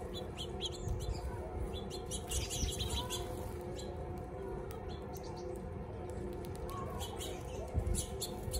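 Birds chirping: short, sharp high chirps that come in quick clusters, busiest about two seconds in and again near the end, over a steady low hum.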